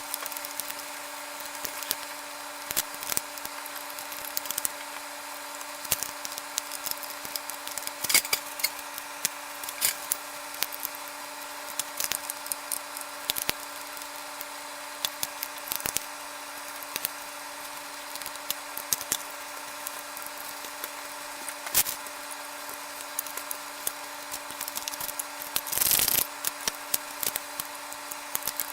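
Scattered clicks and knocks of tools and wood being handled over a steady electrical hum, with one brief, louder rush of noise near the end.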